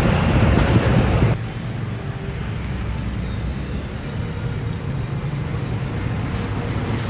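Road traffic of heavy trucks: loud engine and tyre noise from a passing vehicle for about the first second and a half, cutting off suddenly, then a steady, lower engine rumble.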